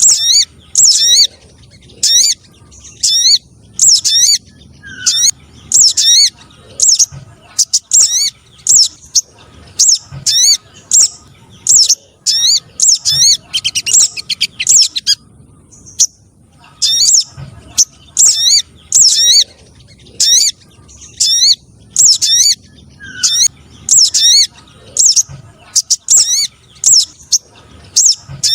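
Recorded lure calls for the sogon trotol (sogok ontong, a spiderhunter): loud, sharp, high chirps with quick sweeping notes, repeated about twice a second. A faster run of notes comes a little before the middle, followed by a pause of about a second and a half before the calling resumes.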